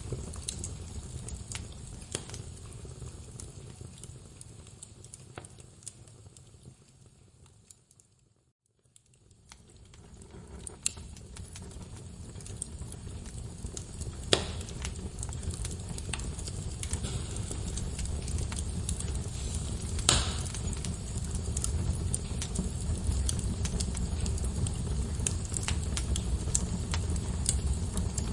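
Log fire crackling, with scattered sharp pops over a steady low rumble of flames. A few louder pops come about 14 and 20 seconds in. About eight seconds in, the sound fades to near silence and then swells back up over several seconds.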